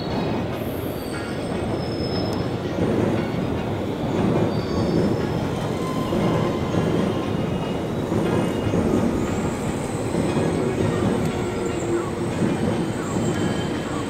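Electric freight locomotive and container wagons rolling slowly through a rail yard: a steady rumble of wheels on track, with short, faint wheel squeals here and there.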